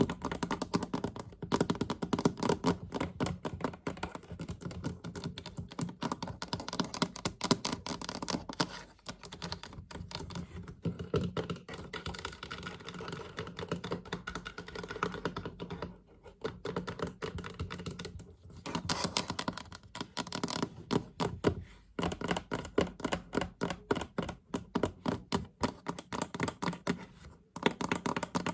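Fast, dense tapping on a toolbox-style chest: rapid clicking taps in runs, broken by a few short pauses.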